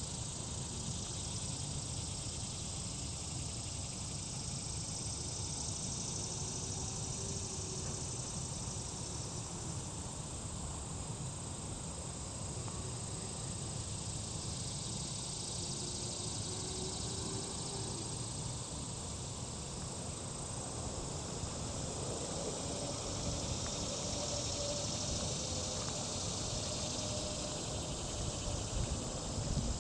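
Outdoor ambience: a steady high-pitched insect drone, with a low rumble underneath and a faint wavering hum in the second half.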